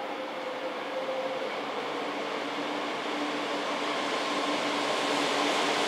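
JR East E4 series Max double-deck Shinkansen train approaching along the station track. Its running noise grows steadily louder, with a steady hum underneath.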